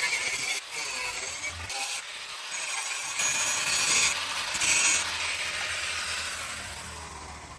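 Rough rasping strokes of a hand tool, like filing or sawing, in uneven runs that stop and start, fading near the end.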